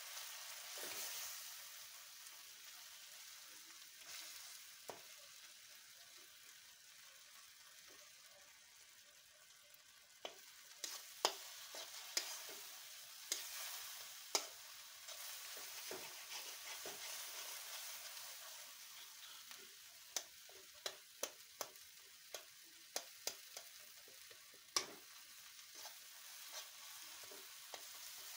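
Shrimp-head paste sizzling in oil in a wok while a metal spoon stirs it, scraping and tapping against the pan. The sizzle fades over the first ten seconds or so; from about ten seconds in the spoon's sharp taps come in quick, irregular runs.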